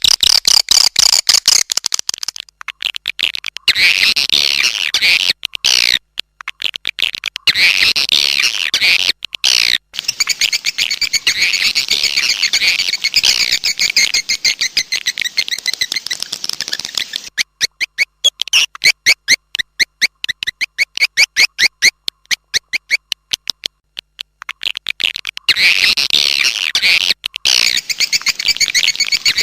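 Recorded swiftlet lure call: dense, fast twittering chirps from swiftlets, broken by short gaps. Partway through comes a run of rapid, evenly spaced clicks before the twittering returns near the end.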